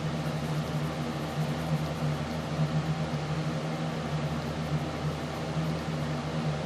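A steady low hum over an even hiss, unchanging throughout, like a motor or appliance running.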